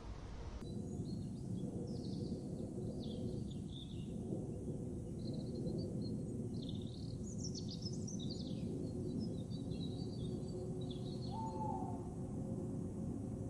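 Small birds chirping and twittering in short, scattered calls over a steady low rumble.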